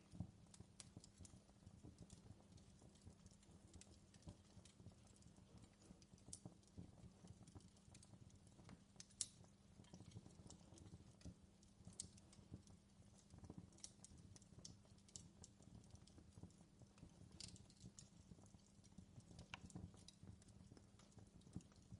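Fireplace fire crackling quietly: irregular small pops and snaps of burning wood over a low steady rumble, with one louder pop about nine seconds in.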